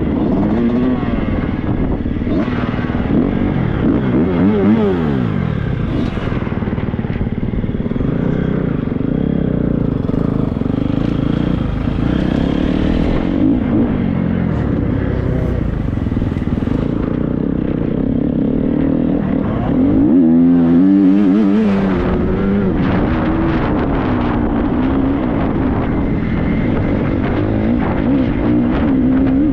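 Triumph 250 motocross bike's single-cylinder engine being ridden hard, its revs rising and falling with each throttle opening and gear change, heard from the rider's helmet. A louder burst of climbing revs comes about two-thirds of the way through.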